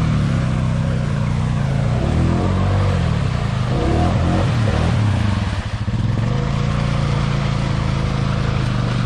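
ATV engine running under throttle, its pitch wavering up and down and dipping briefly a little past the middle.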